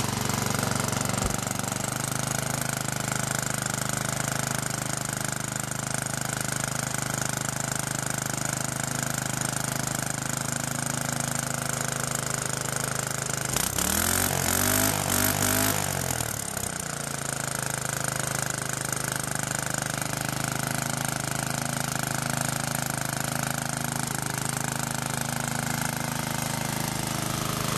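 Baja Doodlebug mini bike's small single-cylinder engine running at a steady idle through a homemade half-inch conduit exhaust pipe ending in a lawnmower muffler, which muffles it pretty well. About halfway through, the engine is revved briefly and then falls back to idle.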